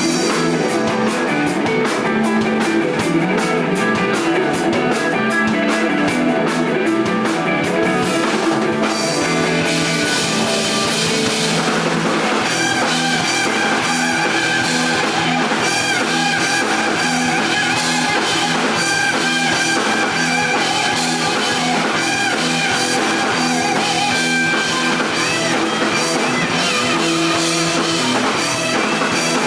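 Rock band playing live with electric guitar and drum kit. The fast cymbal strokes drop out about eight seconds in, and the music builds into a new section a few seconds later.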